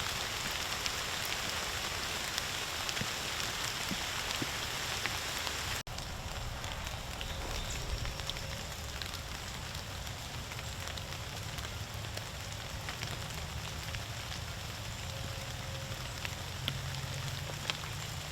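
Steady rain falling, an even hiss with scattered drop ticks. The sound breaks off abruptly about six seconds in and goes on with more low rumble beneath the rain.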